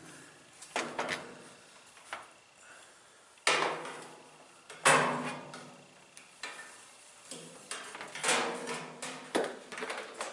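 Metal and plastic washer-cabinet parts knocking and clattering as they are worked loose by hand, with two sharp louder bangs about three and a half and five seconds in that ring briefly, then a run of smaller knocks near the end.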